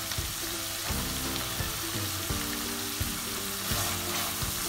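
Boneless chicken sizzling in oil, butter and tomato gravy in a metal pot, a steady frying hiss. A spatula stirs the pieces, with a few scrapes and knocks against the pot.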